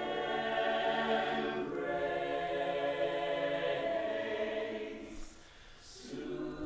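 Choir singing a cappella in sustained, held chords that shift about two seconds in, fade away, and come back near the end. In the short gap two brief hissing sounds are heard.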